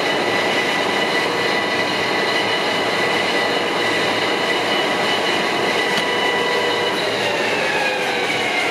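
Carlton 3A radial arm drill's spindle drive running with a steady gear whine as the spindle feeds back up; near the end the whine falls in pitch as it slows.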